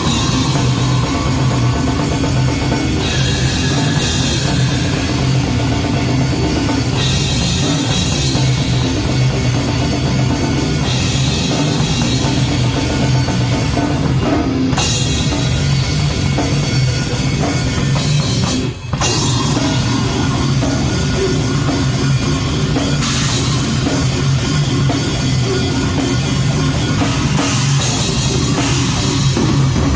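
Extreme metal band playing live, heard from the drum kit, which is loud and dense in the mix. The band cuts out for a split second about two-thirds of the way through, then comes straight back in.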